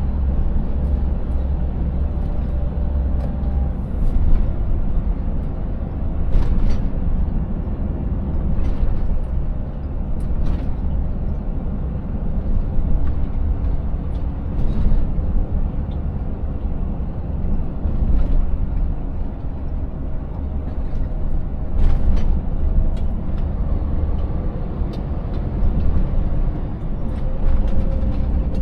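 Scania 590S truck's V8 diesel engine running steadily under way, with a deep rumble and constant road noise. Now and then there are short knocks and rattles as the truck rides over a rough, broken road surface.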